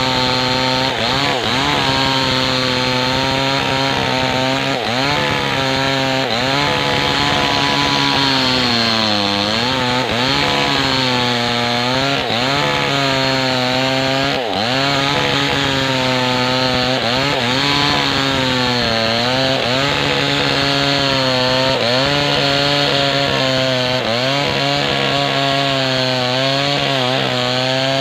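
Maestro 6500L two-stroke chainsaw running at high revs while cutting along a kapok log. The engine note dips again and again as the chain bogs under load in the cut, then climbs back.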